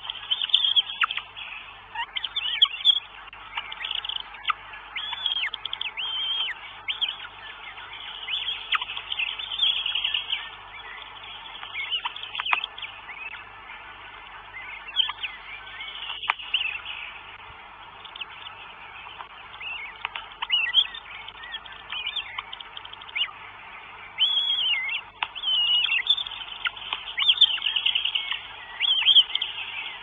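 Birds calling: many short, high calls that rise and fall, repeating throughout, with a few sharp clicks. The sound cuts in suddenly at the start.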